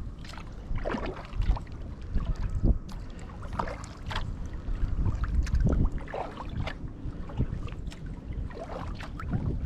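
Kayak paddle strokes splashing in the water at an uneven pace, with wind rumbling on the microphone.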